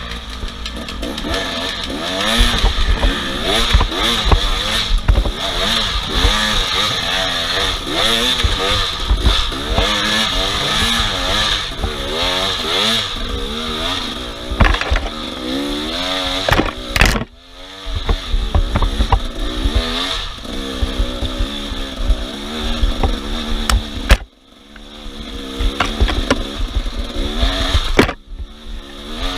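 Off-road vehicle engine revving up and down over and over, as on a rough trail. The sound breaks off abruptly a few times and comes back.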